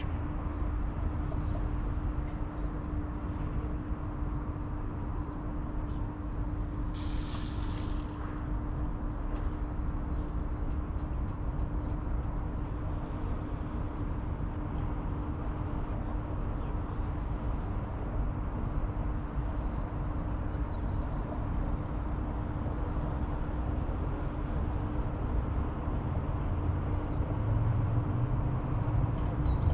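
Outdoor riverside ambience: a steady low rumble with a constant low hum running through it. A brief hiss comes about seven seconds in.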